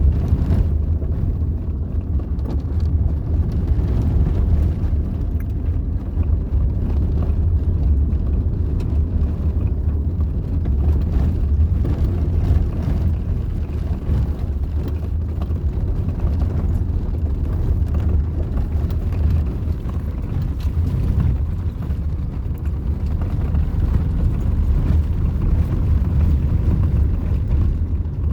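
Steady low rumble of a car driving along a road, with engine and road noise.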